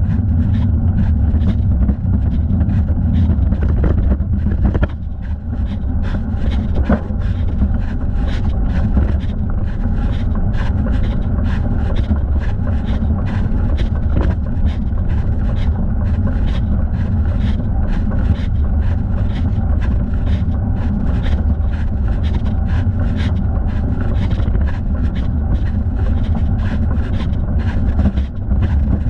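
Steady wind noise and rumble on a thigh-mounted camera microphone while riding a bicycle, with faint regular ticks about two or three times a second.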